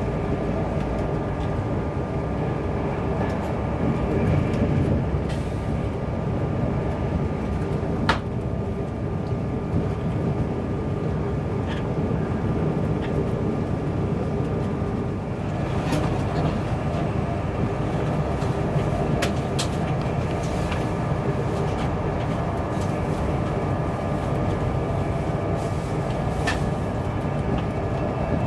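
Steady running noise inside an InterCity 225 passenger coach at speed: a low rumble of wheels on rail with a faint steady whine above it. A few sharp clicks break in, the loudest about eight seconds in.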